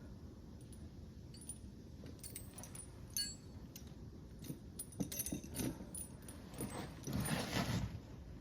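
Light metallic clinking and jingling in scattered bursts, with a louder stretch of rustling near the end.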